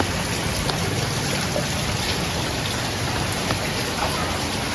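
Steady rain falling, with scattered individual drop ticks.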